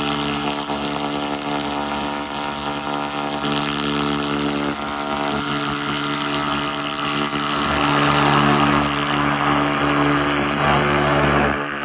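SFX 2000 W laser rust remover running: a steady machine hum with a hiss over it that grows louder about eight seconds in.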